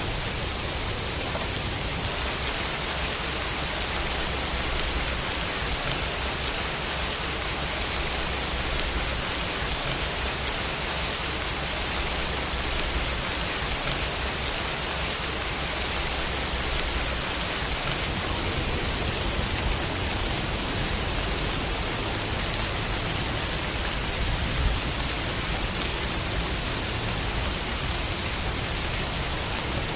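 Steady rain falling, a constant even hiss with no pauses.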